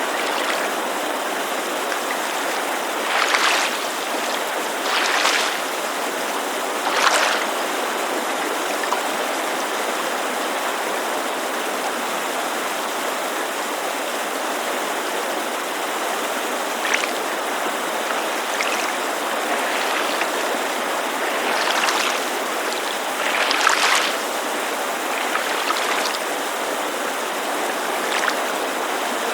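Steady rushing of a mountain creek, with small waves lapping against a lakeshore in brief louder splashes a few times, several in the first seconds and a cluster about two-thirds of the way in.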